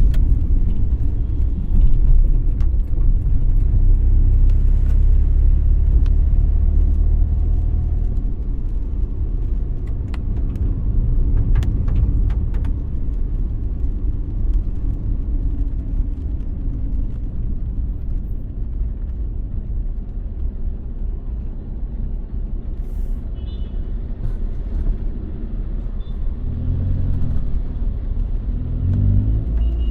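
Road and engine noise of a car being driven: a steady low rumble, with a few sharp ticks in the first half. Near the end an engine note rises and falls twice.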